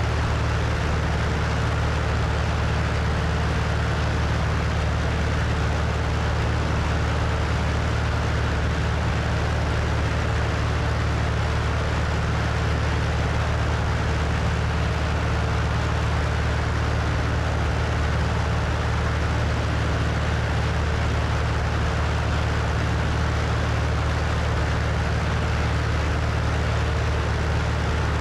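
Cessna 172's piston engine and propeller running steadily at cruise, heard from a wing-mounted camera, with a constant rush of wind over the wing.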